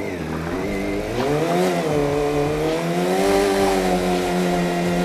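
Motorcycle engine revved hard for a burnout: the revs climb about a second in, are held high for about three seconds with the rear tyre spinning on loose ground, then drop off at the end.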